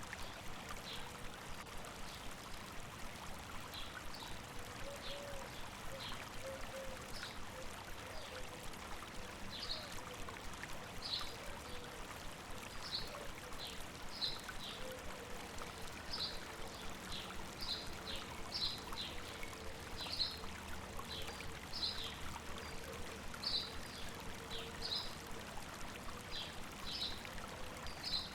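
River water running steadily over rocks, with a small bird giving short, high, repeated chirps that come more often from about a third of the way in.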